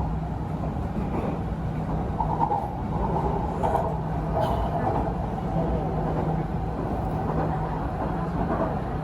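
MRT Purple Line electric train running between stations, heard from inside the car: a steady rumble with a low, even hum.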